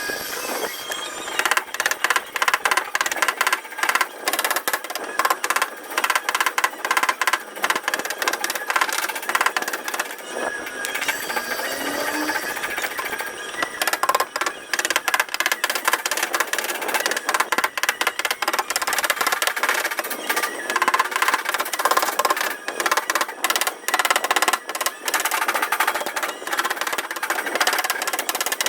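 Rapid, irregular light tapping on a car's sheet-metal body panel, the hammer-and-tap-down work of paintless dent repair that levels the raised edges of a dent, a few taps a second throughout.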